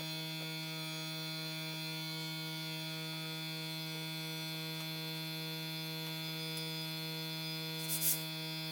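Small electric air pump running with a steady, even buzzing hum, as if inflating bike tyres. Two short bursts of hiss come near the end.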